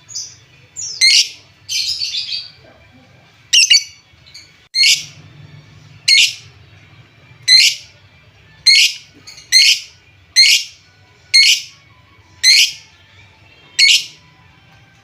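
Lovebird giving short, high-pitched, sharp chirps about once a second, with a brief quicker chatter about two seconds in. It is a lure call of the kind played to stir up quiet lovebirds and get them calling.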